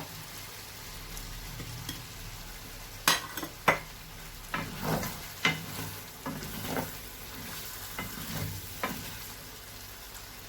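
A spoon stirring and scraping through a pot of chicken masala stew over a low steady sizzle. There are two sharp knocks of the spoon against the pot about three seconds in, then a series of short scraping strokes.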